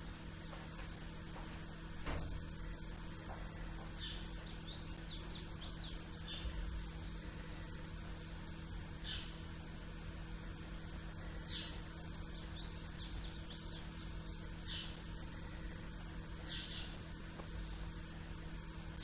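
Small birds chirping in short, high, falling notes, scattered and sometimes in quick runs, over a steady low hum. A single sharp click about two seconds in.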